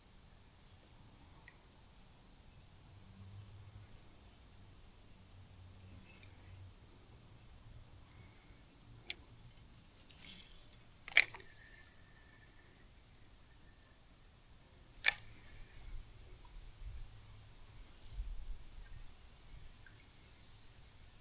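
Steady, high-pitched insect chirring, with three sharp clicks or knocks (the loudest about halfway through) and some low rumbling handling noise near the end.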